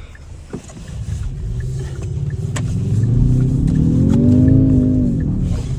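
Kia Stinger's engine revving up under load as the car pushes through deep snow, its pitch climbing for about two seconds then easing back down, over a steady low rumble.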